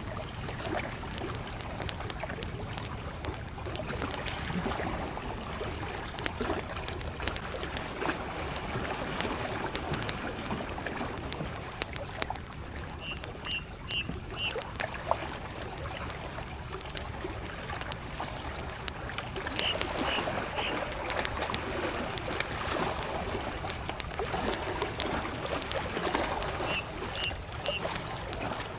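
Wood campfire crackling with sharp pops, over small lake waves lapping at the shore. A bird calls three times, each a quick run of three or four short high notes: about 13 seconds in, about 20 seconds in, and near the end.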